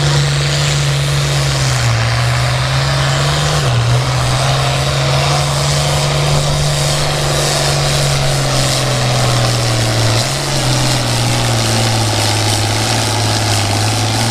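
Pulling tractor's engine running hard at full throttle as it drags a weight-transfer sled. It holds a steady high pitch with a few brief dips where it bogs under the load and then recovers.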